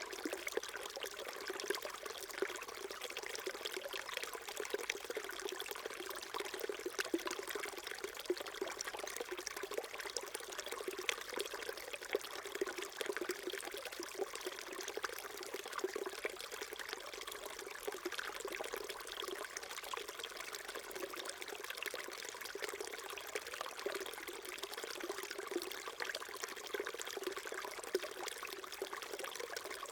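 Small mountain stream babbling steadily over stones, a continuous gurgling trickle with small splashes.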